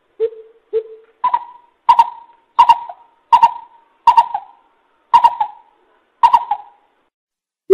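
Greater coucal lure call: a series of short hooting notes, two lower ones followed by about seven higher ones, a little under one a second.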